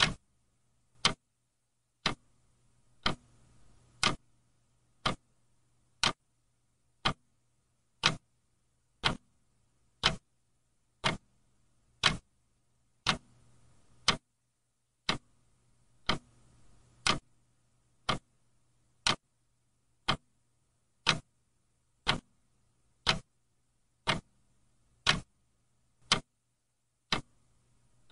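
A clock ticking at an even one tick per second, each tick a sharp, short click, over a faint low hum.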